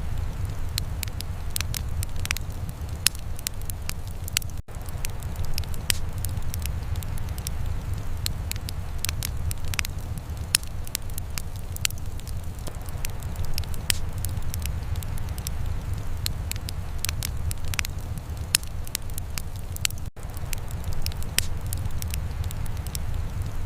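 Wood fire in a fireplace crackling and popping in irregular sharp snaps over a steady low rumble.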